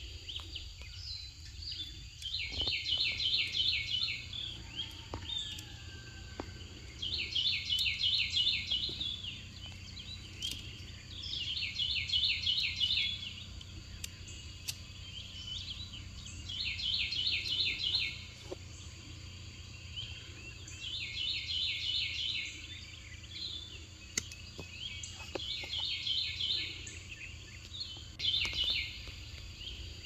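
A songbird singing the same quick phrase of rapidly repeated high notes over and over, one phrase every four seconds or so, each lasting a second or two. A steady low hum runs underneath.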